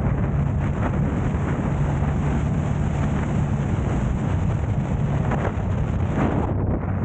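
A car driving, with a steady low road and engine drone under wind buffeting the camera's microphone. A high hiss over it drops away about six and a half seconds in.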